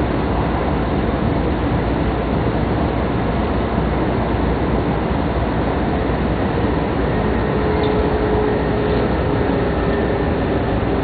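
Steady running noise inside the cabin of a double-decker MAX Shinkansen in motion, heard from the upper deck. It is an even, low-heavy rumble, and a faint steady tone joins it about seven seconds in.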